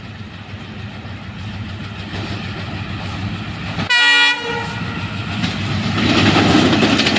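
WDM-3A diesel-electric locomotive approaching, its engine rumble steadily growing louder. It gives one short horn blast about four seconds in, the loudest sound. Near the end the rumble and wheel clatter swell as the train draws close.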